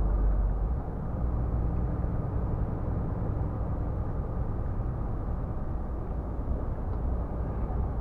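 Scania R450 truck's 13-litre straight-six diesel and tyres droning steadily at highway speed, the low rumble easing slightly about a second in.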